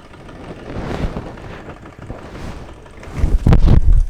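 Steam hissing weakly from the whistle of a Wilesco D419 model steam engine that fails to sound a note: the boiler is running low on pressure. A loud low rumble comes near the end.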